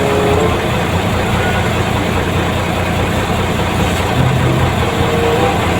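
Truck engine running steadily, heard from inside the cab, with a constant wash of noise over it.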